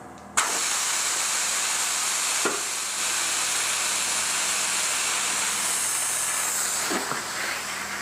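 Compressed air hissing steadily through the tire valve of a freshly mounted car tire, with a few brief ticks along the way.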